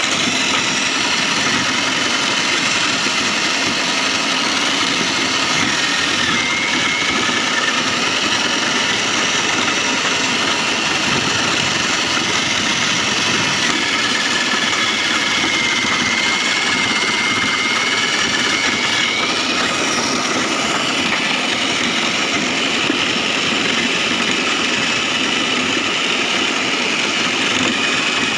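Foam shredding machine running steadily, a continuous mechanical noise with a faint high whine that wavers through the middle.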